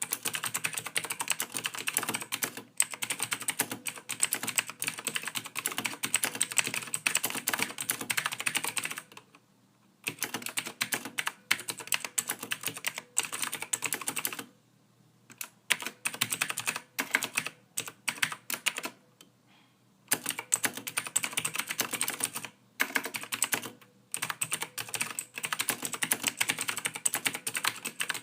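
Computer keyboard typed on quickly, with fast runs of key clicks lasting several seconds, broken by short pauses.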